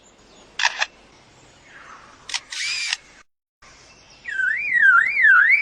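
Lyrebird mimicking a camera: single shutter clicks, then a short whirring burst like a motor drive. About four seconds in it switches to a loud electronic tone that swoops up and down several times a second, like a car alarm.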